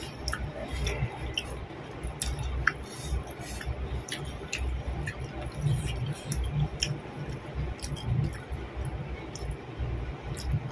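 Close-up eating sounds: a person chewing soft fried eggplant with raw sambal, with many short, irregular wet mouth clicks and smacks over soft low thuds of chewing.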